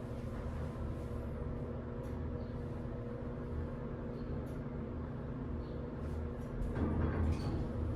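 Hydraulic elevator's electric pump unit running with a steady hum over a low rumble. The hum cuts off about seven seconds in, as the car comes to a stop, with a brief louder rumble.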